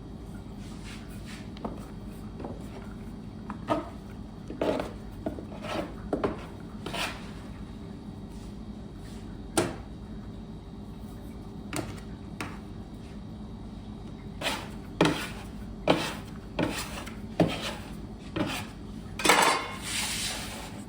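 Kitchen utensils and dishes being handled: irregular knocks and clinks, with a longer scrape near the end, over a steady low equipment hum.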